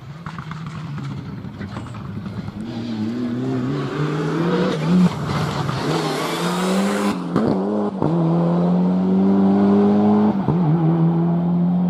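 Four-wheel-drive rally car approaching and accelerating hard, its engine note climbing in pitch through the gears with brief dips at the shifts, getting steadily louder.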